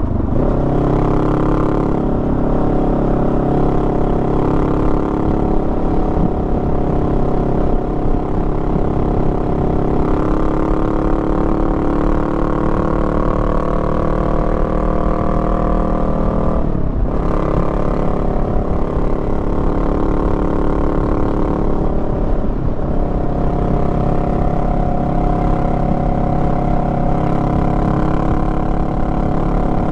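Honda Rebel 500's parallel-twin engine running under way as heard from the rider's seat, a steady engine note that eases slowly lower, broken by two short dips about seventeen and twenty-two seconds in.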